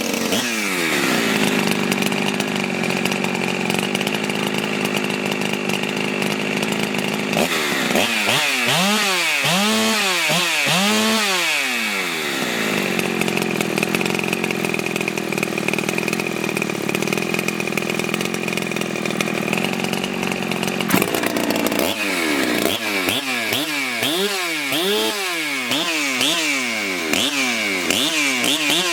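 Ported big-bore Husqvarna 372XP two-stroke chainsaw running hard. Long stretches hold a steady high engine speed, and two stretches have the engine pitch swinging down and back up about twice a second.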